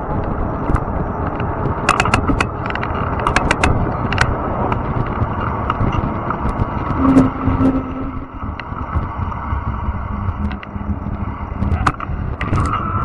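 Fat-tire e-bike riding over rough, overgrown trail: a steady rumble of tyres and wind on the microphone, with scattered sharp clicks and rattles, bunched around two to four seconds in and again near the end. A brief low hum sounds about seven seconds in.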